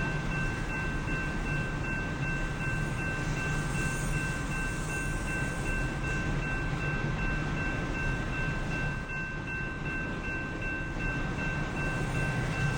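Train passing, a steady rumble with two steady high ringing tones held over it.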